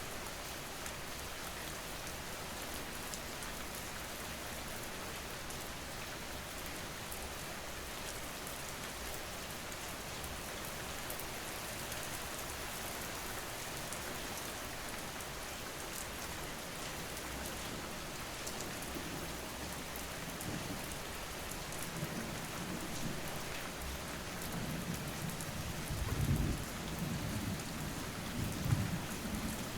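Steady rain falling, with low rolling thunder that builds in the last ten seconds and peaks twice near the end.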